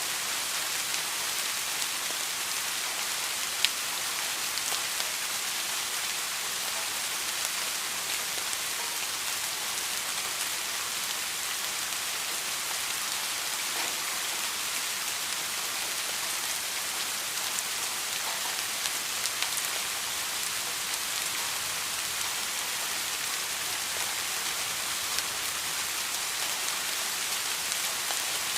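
Steady rain falling on a surface, an even hiss with scattered drop ticks and one sharper drop about three and a half seconds in.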